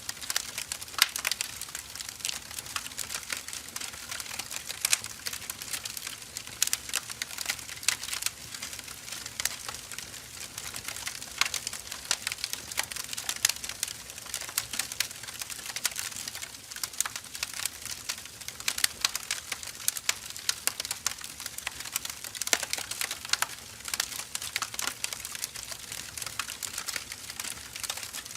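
Firewood fire crackling: irregular snaps and pops over a steady hiss of burning.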